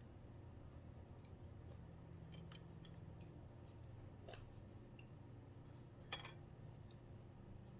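Near silence with a low steady hum, broken by a few faint clicks and taps of utensils or dishes, the most distinct about six seconds in.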